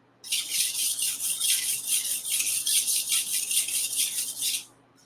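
Chef knife blade scraped rapidly back and forth across a tri-stone sharpening stone: a gritty, hissing scrape pulsing at about five strokes a second, starting just after the start and stopping abruptly shortly before the end.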